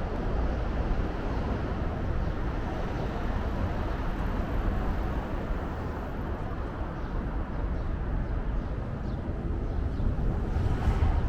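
Steady outdoor city ambience: an even, low rumble of distant traffic.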